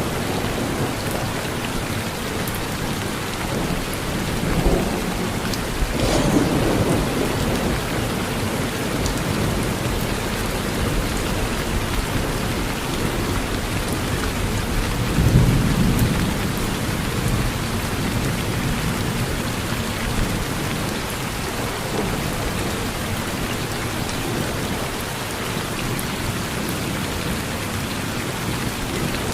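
Steady rain falling on a porch, with thunder rumbling low twice: a crack and rumble about six seconds in and a stronger rumble about fifteen seconds in.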